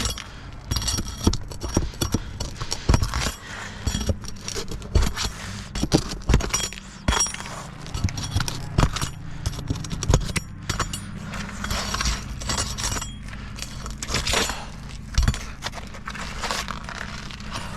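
Roofing nails being pried out of a shingle roof with a metal hand tool: irregular sharp metallic clicks, taps and scrapes against the nails and the brittle shingles.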